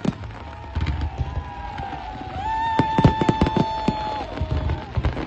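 Fireworks display with many shells bursting in quick succession: a dense run of sharp bangs and crackles over a low rumble. A long steady high tone sounds about halfway through for under two seconds.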